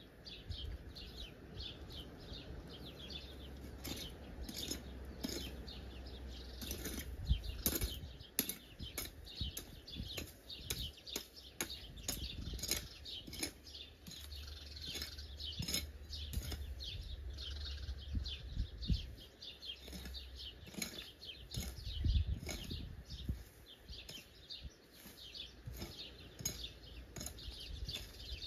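A crowd of small birds chirping constantly in quick, overlapping calls, with a low rumble and a few dull thuds, the loudest about seven seconds in and again about twenty-two seconds in.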